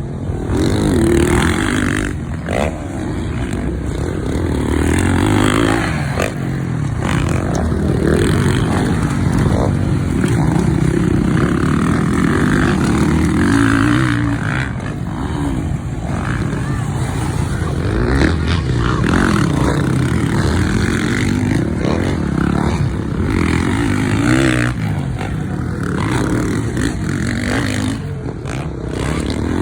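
Motocross bike engine running and revving, its pitch rising and falling with the throttle.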